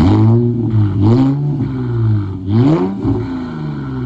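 Straight-piped Infiniti Q50 exhaust, with no mufflers or resonators, blipped three times in quick succession: each rev rises sharply and drops straight back to idle.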